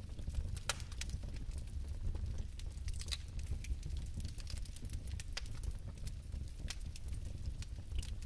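Fire crackling, with irregular sharp pops and snaps over a steady low rumble of the flames.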